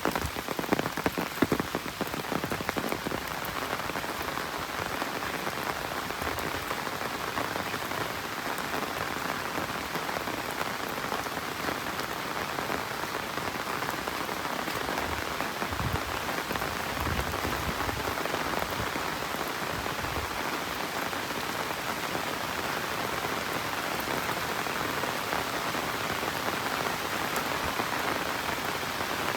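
Steady rain falling on the ground and foliage. In the first few seconds there is a louder, denser patter of drops, which then settles into an even hiss.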